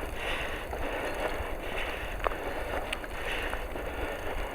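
Steady outdoor noise of someone walking up a hill road, with a low wind rumble on the microphone and a few faint clicks.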